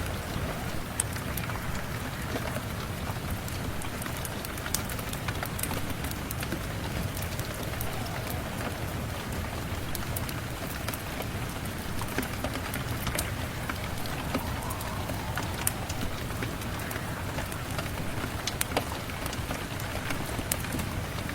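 Steady rain, a constant even hiss, with scattered sharp ticks and pops through it, as from a crackling wood fire.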